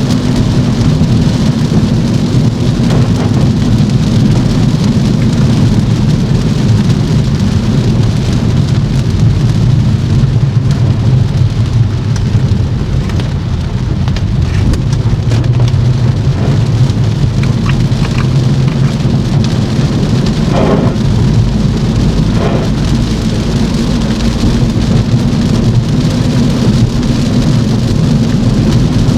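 Car driving in rain on a wet road: a steady hiss of rain and wet tyres over a low rumble, with a couple of brief louder swishes about two-thirds of the way through.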